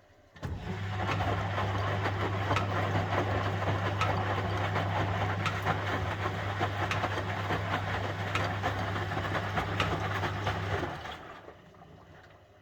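The drum motor of a 1971 Constructa Garant 491 washing machine starts about half a second in with a steady hum. It turns the drum through one wash rotation, the noise of the moving drum full of rapid small clicks, then stops near the end.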